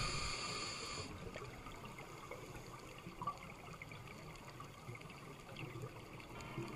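A song's music fades out about a second in, leaving faint, watery trickling with small scattered crackles.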